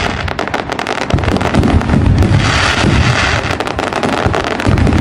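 Fireworks going off: a dense, rapid crackle of many sharp pops over the low rumble of bursts.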